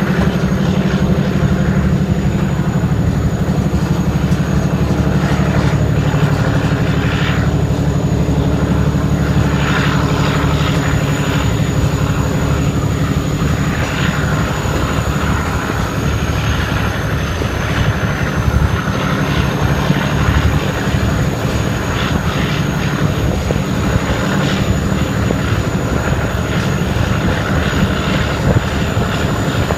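Class 17 'Clayton' diesel locomotive engine running steadily under load while hauling the train, a loud low drone, with wheel and rail noise and occasional clicks over it.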